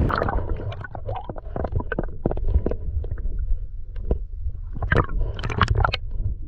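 Water sloshing and gurgling against a kayak hull, with irregular small knocks and splashes over a steady low rumble.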